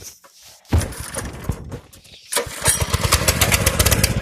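196 cc single-cylinder four-stroke mini bike engine starting: it catches suddenly about a second in, falters briefly, then picks up and runs with fast, even firing pulses.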